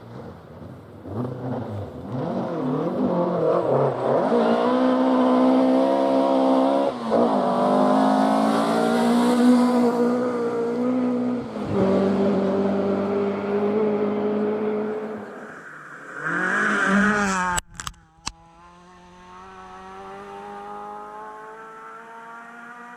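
Rally car engine at full throttle passing close by, its pitch dropping sharply at gear changes about 7 and 12 seconds in. After an abrupt break with clicks near 18 seconds, a fainter engine climbs steadily in pitch as it accelerates.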